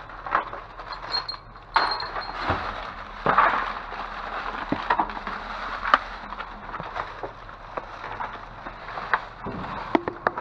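Discarded items being rummaged through and handled in a dumpster: irregular knocks, clinks and rattles of objects being moved and set down.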